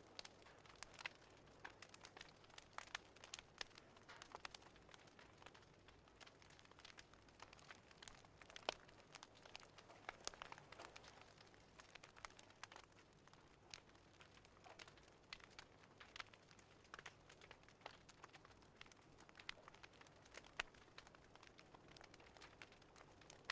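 Fireplace fire crackling faintly, with irregular sharp pops and snaps over a soft hiss.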